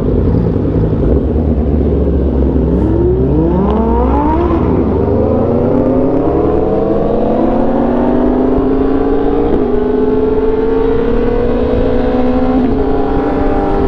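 Sportbike engine accelerating: its pitch climbs quickly a few seconds in, then keeps rising slowly and steadily as the bike pulls.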